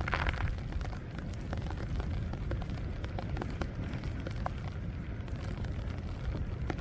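Wind buffeting the microphone in a snowstorm, a steady low rumble, with scattered light ticks and a brief rustle at the start.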